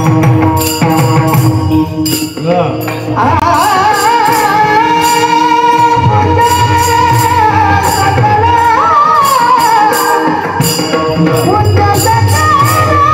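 Devotional abhang singing with percussion. A solo voice comes in about three seconds in and holds long, wavering notes over a steady percussion rhythm.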